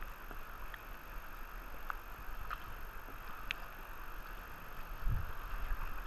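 Steady rush of flowing river water, with a few faint, brief high chirps and a low bump about five seconds in.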